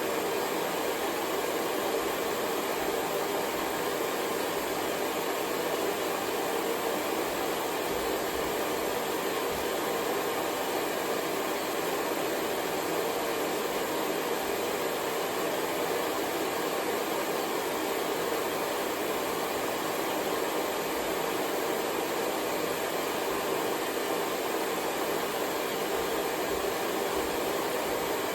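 Hair dryer running steadily: a continuous, even rush of blown air and motor hum with no change in level.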